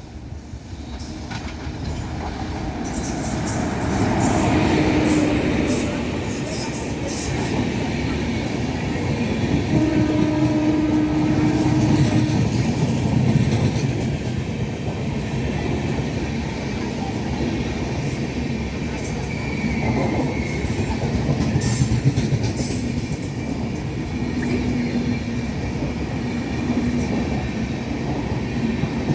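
Indian Railways express train hauled by a WAP-4 electric locomotive running along the track, its wheels clattering over the rail joints in a continuous rumble that builds up over the first few seconds.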